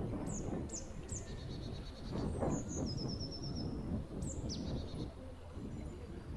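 Woodland songbirds calling: several quick high notes that fall sharply in pitch, and a short rapid trill of about six notes in the middle, over a steady low rumble.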